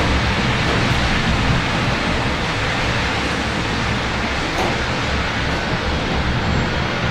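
Steady rain hiss with a low, uneven rumble of city traffic beneath it.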